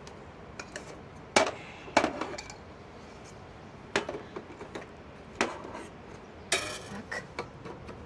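Hard objects knocking and clinking as camp gear is handled: about half a dozen separate sharp knocks, the loudest two between one and two seconds in, and a short rattling clatter about six and a half seconds in.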